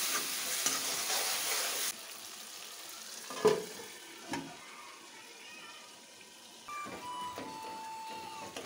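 Masala frying and sizzling in a steel kadai while a steel ladle stirs it; the sizzle cuts off abruptly about two seconds in. About a second later comes one sharp metal clank, a steel pot lid being handled, then a smaller knock.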